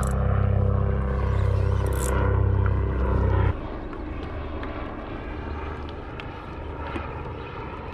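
A low, steady motor drone with a slow pulse, cutting off suddenly about three and a half seconds in, leaving quieter background noise with faint clicks.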